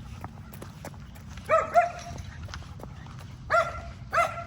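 A dog barking: four loud barks in two pairs, the first pair about a second and a half in, the second pair a couple of seconds later.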